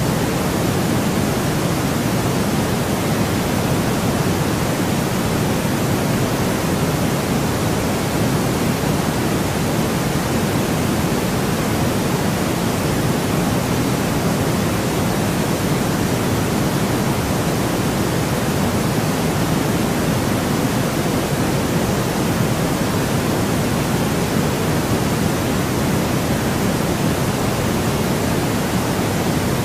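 Generated white noise for sleep: a steady, unchanging hiss, fuller in the low and middle range than at the top.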